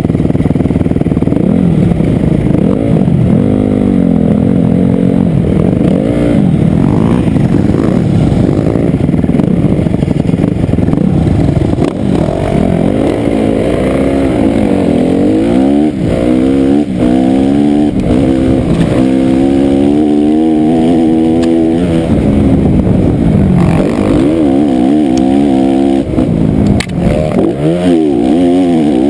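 Motocross dirt bike engine being ridden hard, its pitch rising and falling again and again as the throttle opens and closes. A few sharp knocks come through, near the middle and near the end.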